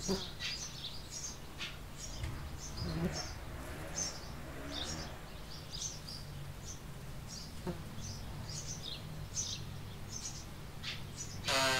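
Small birds chirping over and over with short, high chirps, over a low steady buzz. Near the end comes one louder, harsh call lasting under a second.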